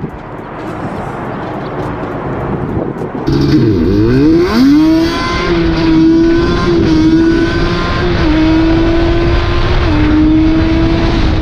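Nissan 350Z's V6 engine and exhaust under way. About three and a half seconds in, the revs drop sharply and climb back, and it gets louder. It then holds a steady drone, with the pitch stepping slightly up and down.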